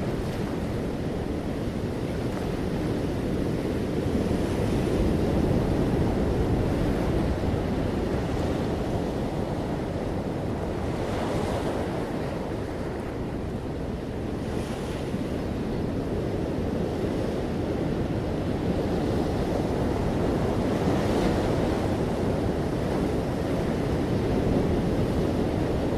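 Ocean waves breaking and washing on a beach, a continuous deep surf sound that swells and eases slowly, with a few brighter hissing washes as waves break.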